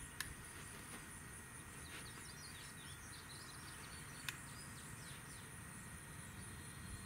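Quiet outdoor ambience with small birds chirping faintly in the middle stretch, and two brief sharp clicks about four seconds apart.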